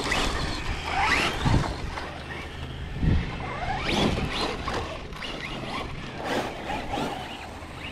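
Electric RC truck motors and drivetrains whining as they rev up and down in short bursts, with a couple of thumps.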